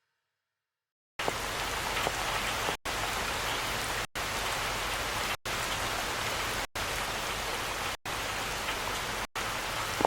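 Silence for about a second, then steady rain falling, broken by very brief gaps about every second and a half.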